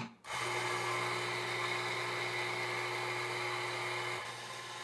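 Victoria Arduino MDJ on-demand espresso grinder grinding a programmed single dose: a steady motor hum with a faint whine above it. It starts just after the beginning and cuts off near the end, after about four seconds, the 3.8-second timer setting.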